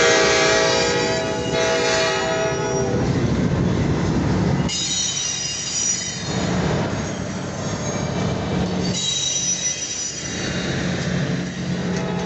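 Diesel locomotive's air horn sounding a chord that fades out about three seconds in. Then the train's wheels squeal on the rails in high, thin tones, starting about five seconds in and again about nine seconds in, over the low steady drone of the passing train.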